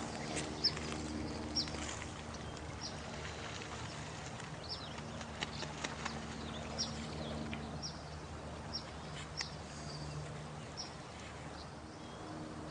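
Night nature soundscape: a steady hiss of running water, with short high falling chirps about once a second, scattered clicks and a low steady hum underneath.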